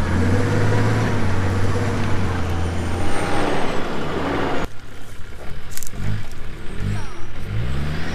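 A 4WD wagon's engine running steadily as it drives along a soft sand track, with wind and tyre noise on the side-mounted camera. About halfway through the sound cuts to the engine heard from outside, rising in short low revs as the vehicle works on the sand.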